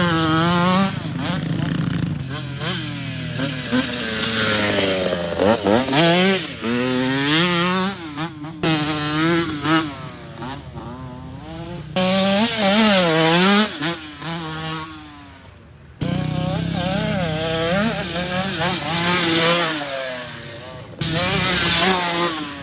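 Motocross dirt bike engines revving hard, their pitch repeatedly climbing and dropping with throttle and gear changes. The sound jumps abruptly several times.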